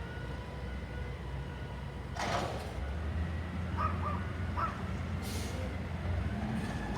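CNG front-loader garbage truck running steadily, with a short hiss of air a little over two seconds in and a fainter high hiss a few seconds later.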